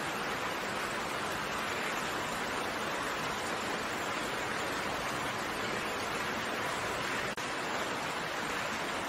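Steady rain, an even hiss of many drops with no single drop or patter standing out, broken by a brief dropout about seven seconds in.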